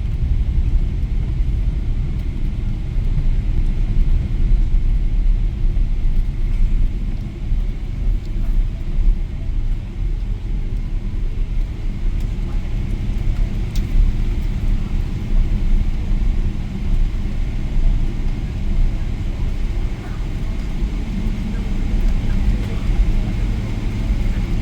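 Steady low rumble inside the cabin of a Boeing 777-300ER airliner, with one sharp click about 14 seconds in.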